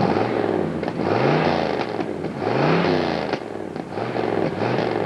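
A car engine revving in a few short throttle blips, its pitch climbing and dropping back each time, with a few sharp clicks between them.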